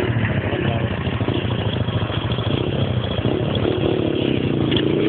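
Motorcycle engine running at a fast idle with a slight rise in engine speed in the second half.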